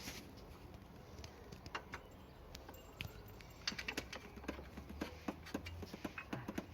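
Irregular light clicks and taps of hand tools and bolts handled against metal during engine mounting work, coming more often in the second half.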